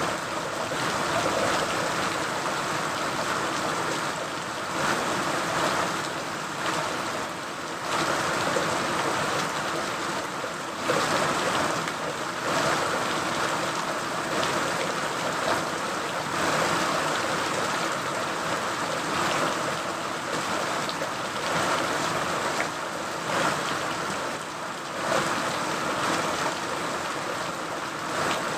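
Steady rainfall: a dense, even hiss of rain that swells and eases slightly in loudness.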